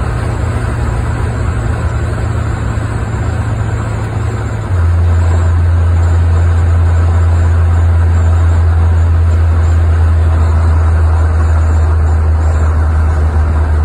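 Alvis TD21's 3-litre straight-six engine and road noise while driving: a steady low drone that drops in pitch and gets louder about five seconds in.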